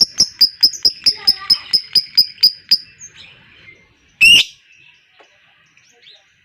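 Lovebird ngekek: a long, fast run of sharp chirps, about five a second, that stops after about three seconds. One loud, harsh call comes about a second later.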